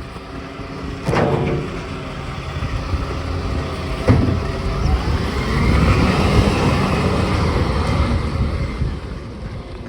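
Garbage truck running, its engine revving up with a rising whine over several seconds, with a sharp knock about four seconds in.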